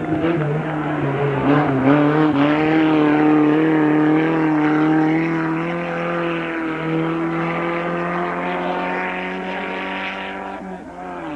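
Racing car engine running hard, with quick changes in pitch in the first two seconds like gear shifts, then holding a high, steady note as it slowly fades away; the note drops briefly near the end.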